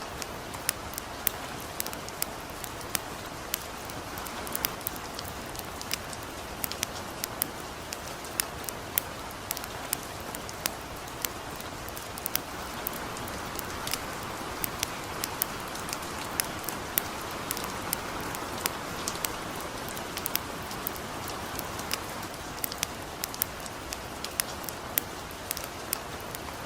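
Light rain falling with a steady soft hiss, mixed with a calm wood fire crackling: sharp, irregular pops a few times a second.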